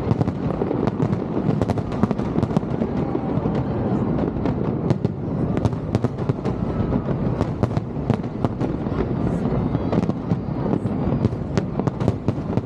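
Fireworks display: a dense, unbroken run of sharp bangs and crackling, many shells bursting close together.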